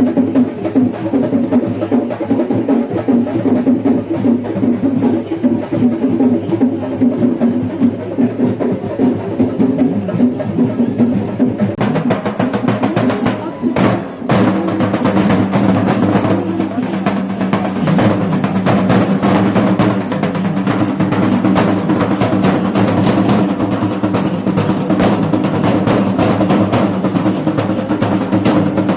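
Kerala chenda drum ensemble (melam) playing a fast, continuous beat. About halfway through there is a brief break, after which the playing turns brighter and busier.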